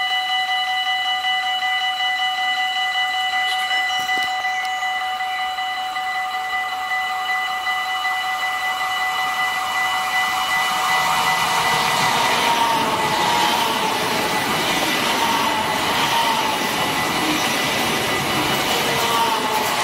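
Deutsche Bahn ICE 3 high-speed electric train approaching and passing close by. Over the first half a steady high whine of several tones is heard. From about halfway the rushing noise of wheels on rails builds as the carriages go by, with a wavering whine on top.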